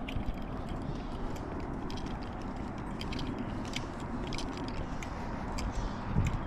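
Footsteps walking along a trail: light scuffs and clicks about every half second over a steady low outdoor rumble.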